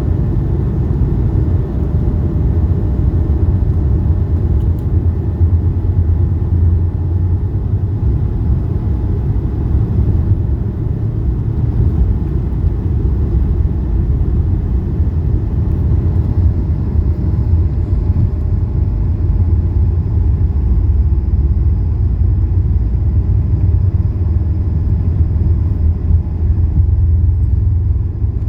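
Steady deep rumble inside the cabin of an Airbus A220, from its Pratt & Whitney geared turbofan engines and the rushing air around the airliner.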